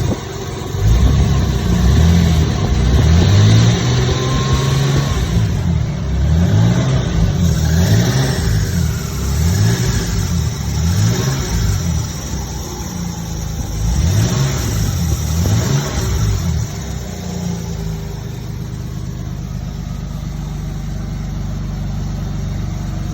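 Toyota Supra's 3-litre twin-turbo 2JZ straight-six revved again and again in short rising-and-falling blips, then settling to a steady idle about seventeen seconds in.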